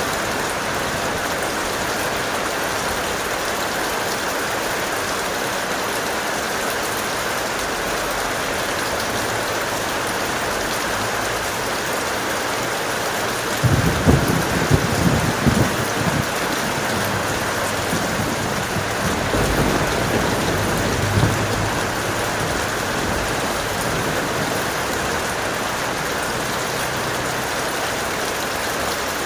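Heavy rain falling steadily. About halfway through, a rumble of thunder breaks in with a few sharp cracks, and a softer rumble follows a few seconds later.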